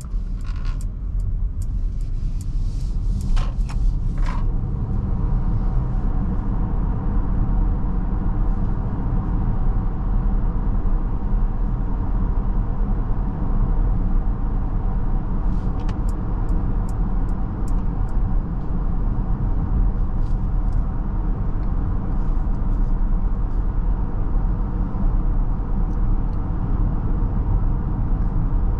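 Steady low road and tyre rumble inside the cabin of a Mercedes-Benz GLB350 on the move. A run of light clicks in the first few seconds, and again about halfway through.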